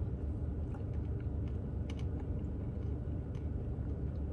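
Light, scattered clicks and crunches of eating: a spoon working in a Blizzard cup and truffle pieces being chewed, over a steady low hum.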